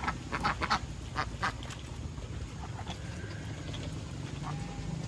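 Ducks quacking in a rapid run of short calls during the first second and a half, then only a few scattered quacks.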